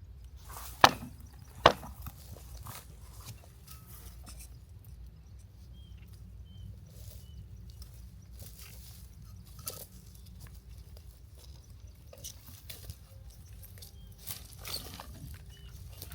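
Two sharp, loud blows about a second apart near the start, like chopping or striking, then scattered light taps and clicks. Over a steady low rumble, a few faint short high chirps come through.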